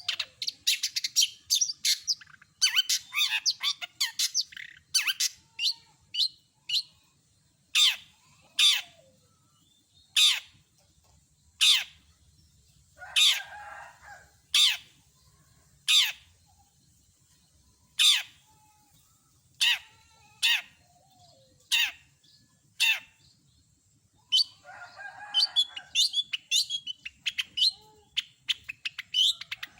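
Long-tailed shrike (cendet) singing. It opens with fast runs of sharp high notes, then gives single sharp notes about once a second with two harsh rasping calls mixed in, and breaks into a fast run of notes again near the end.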